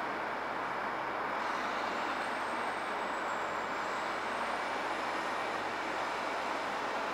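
Heavy truck running steadily, a constant rushing noise, with a faint high whine coming in about a second and a half in and slowly rising.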